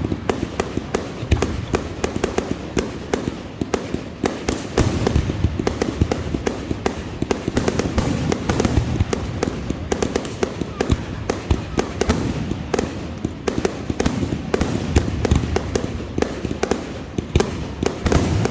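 Fireworks going off in a dense barrage: rapid sharp bangs and crackles, several a second, over a steady low rumble.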